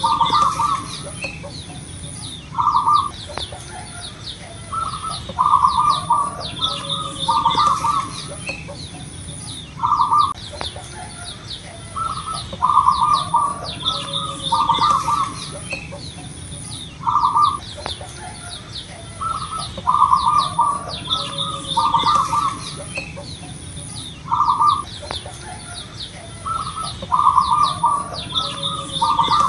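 Zebra dove (perkutut) cooing its staccato song phrase, repeated about every seven seconds, over a background of chirping from smaller birds.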